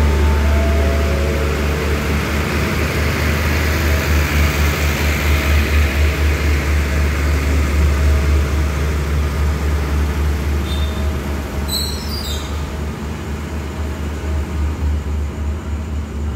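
A passenger train's coaches rolling past as it pulls out of the station: a steady low rumble and hum with a rhythmic pulsing of wheels on the rails, easing as the train draws away. A few short high squeals come about eleven to twelve seconds in.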